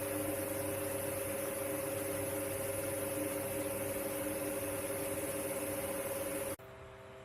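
Small electric mist fan motor running with a steady hum and hiss, dropping suddenly to a much quieter hum about six and a half seconds in.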